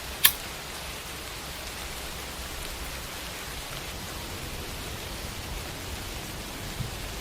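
Steady, even hiss of background noise with no speech. A single sharp click sounds just after the start, and a faint tick comes near the end.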